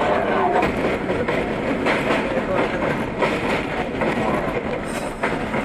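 R32 subway train running along the track, a steady rumble with wheels clacking over rail joints, several sharp knocks about two, three and five seconds in.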